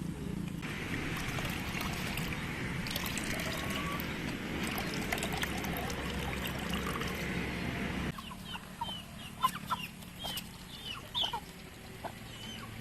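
A steady rushing hiss that cuts off suddenly about eight seconds in, followed by short, scattered bird calls and clucks.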